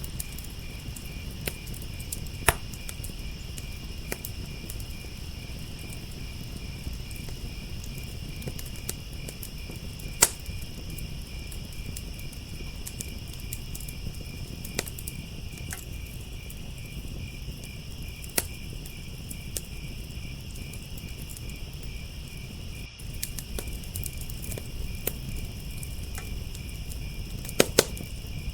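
Wood fire crackling with scattered sharp pops, a few of them loud and two close together near the end, over a steady chorus of crickets chirping in a fast pulsing trill.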